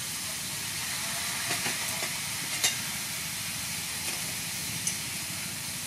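Gizzard pieces and lemongrass sizzling in a hot wok, a steady frying hiss. A few light utensil clicks, the sharpest about two and a half seconds in.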